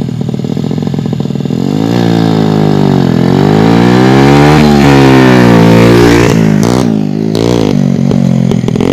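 Honda Supra X 100's single-cylinder four-stroke engine through a Kawahara aftermarket exhaust: a lumpy low-rev beat that picks up after about a second and a half, then pitch rising and dropping through throttle and gear changes, with quick sharp revs near the end.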